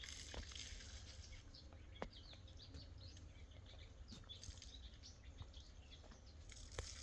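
Faint birds chirping and twittering over a quiet, low outdoor rumble, with a few soft clicks.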